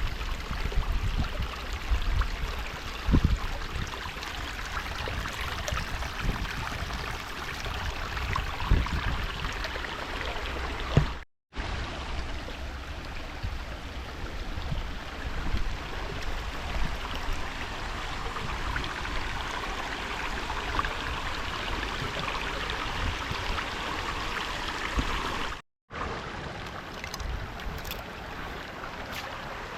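Shallow creek water babbling and rushing over rocks in a steady, even wash. There are a few low thumps in the first nine seconds, and the sound cuts out briefly twice.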